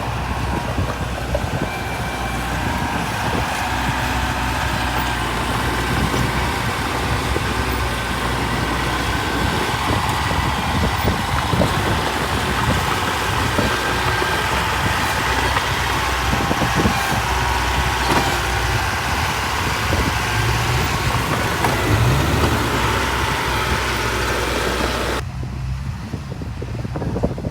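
Diesel engine of heavy earthmoving machinery running steadily at work. Near the end the sound turns abruptly duller.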